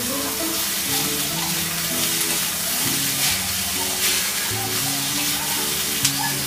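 Noodles and vegetables sizzling in a steel kadhai over a gas flame as they are tossed and stirred fast, working the just-added soy sauce, chilli sauce and vinegar through them. The sizzle is a steady hiss, with a sharp knock near the end.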